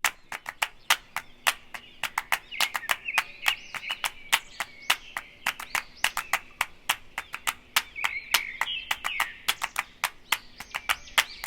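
Small birds chirping and warbling continuously, over a run of sharp, irregular clicks, several a second, which are the loudest sounds.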